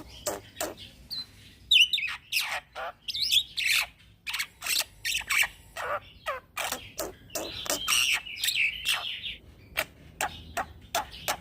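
Young black-winged myna (jalak putih) singing continuously: a rapid run of sharp clicking notes, several a second, broken twice by harsher, scratchy chattering phrases.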